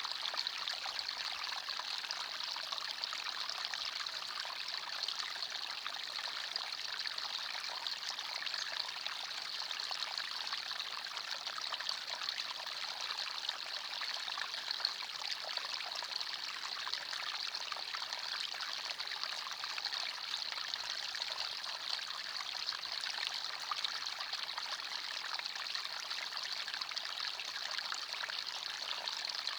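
Small forest stream flowing and trickling over stones, a steady, even water noise with a bright, hissy edge and no pauses.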